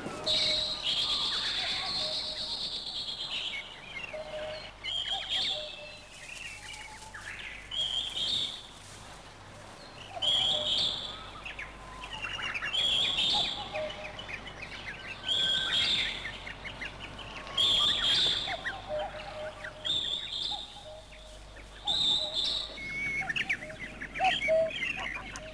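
Birdsong: a bird singing short, high chirping phrases, one every second or two, the first a longer phrase at the start.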